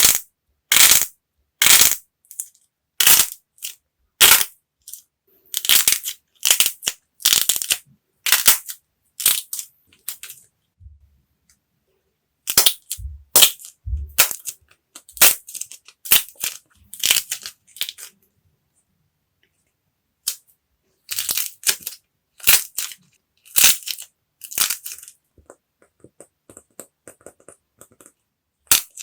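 Hardened clay being cracked and crushed: a series of sharp crackling crunches, about one or two a second, broken by a few short pauses, with a run of finer, smaller crackles near the end.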